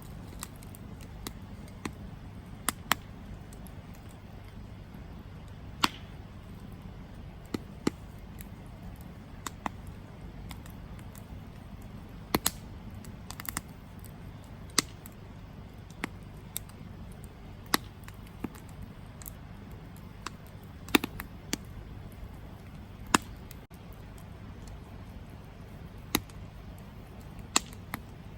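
Wood campfire burning: sharp, irregular crackles and pops from the burning wood over a steady low rumble.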